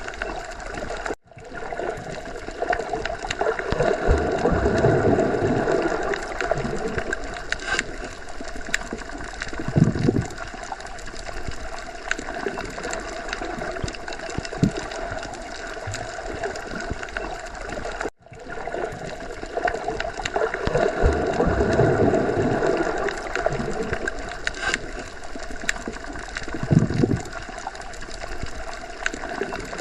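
Underwater sea ambience: a continuous muffled wash of water with gurgling, swelling and fading slowly. It cuts out for an instant twice, about a second in and again about eighteen seconds in.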